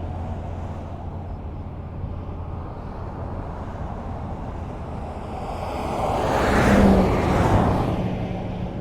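Highway traffic: a steady low rumble of road noise, with one vehicle passing close by. It rises to a peak about seven seconds in and then fades away.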